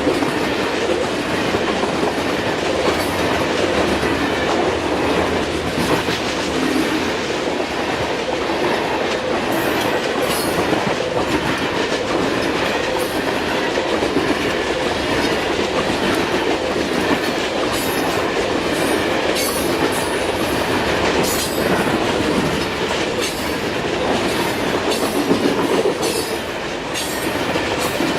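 Long freight train of grain hopper and sulfur cars rolling past, with a steady rumble of wheels on rail and frequent clicks and rattles as the wheels pass over rail joints.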